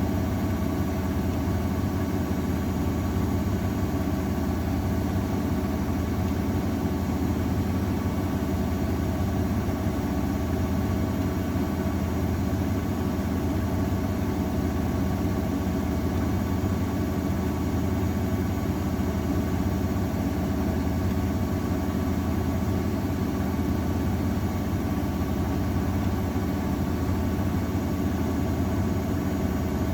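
AEG Öko-Lavamat 693 washing machine spinning at a constant speed near the end of its 60 °C cycle, with a steady hum and several steady tones from the motor and drum.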